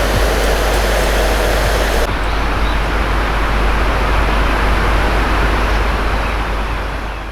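Water released through a dam's floodgates after a typhoon, a dense steady rush with a heavy low rumble. The sound changes abruptly about two seconds in and fades near the end.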